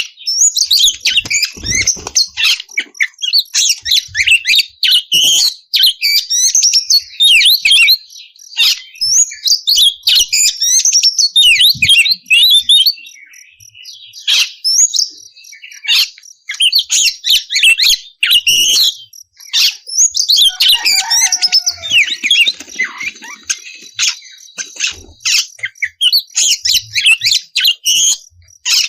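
Oriental magpie-robin (kacer) singing loudly: a fast, continuous run of chirps, trills and whistles with brief lulls near the middle and about two-thirds in. Just after the second lull come a few lower notes sliding downward.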